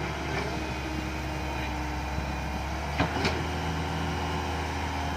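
Heavy diesel machinery engine running steadily at a low hum while wet soil is being cleared, with two short clanks about three seconds in.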